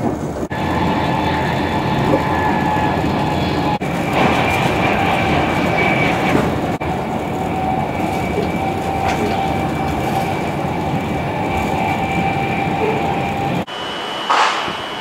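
Steady running noise heard inside a passenger train at speed: a rumble under a faint whine held at a couple of pitches, broken by several abrupt cuts. Near the end it cuts to a Class 390 Pendolino electric train passing a platform, with a higher steady whine.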